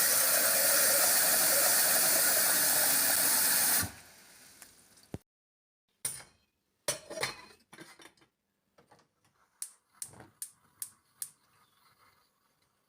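Water running hard from a tap, a steady rush that is shut off abruptly about four seconds in, followed by a series of sharp clicks and light knocks.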